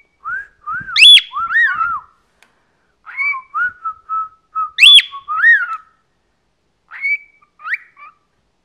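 Pet cockatiel whistling in three phrases of clear notes that glide up and down, with a loud, sharply rising note about a second in and again about five seconds in.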